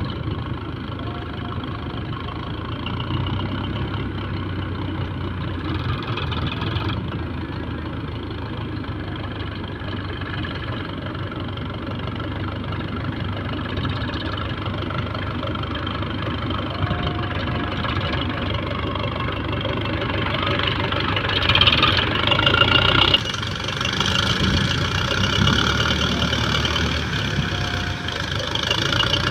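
Heavy diesel engine running steadily, louder for about two seconds a little after two-thirds through, then dropping back suddenly.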